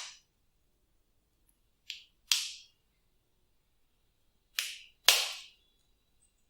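Glossy slime making sharp air-bubble pops as it is pressed and stretched by hand: two pairs of loud pops, one pair about two seconds in and another about four and a half seconds in.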